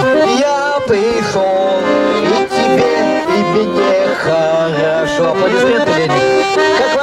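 Instrumental music led by an accordion playing a melody over held chords.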